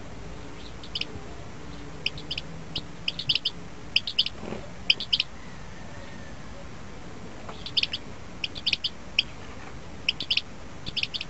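Small songbird chirping in quick clusters of two or three short, high notes, repeated many times, with a pause of a second or two about halfway through.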